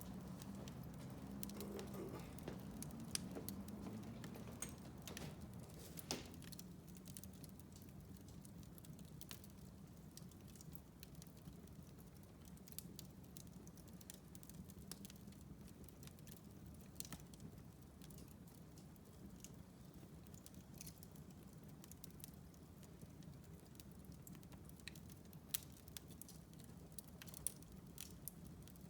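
Wood fire in a fireplace crackling faintly, with scattered sharp pops and snaps over a low steady rumble of flames, a little louder in the first few seconds.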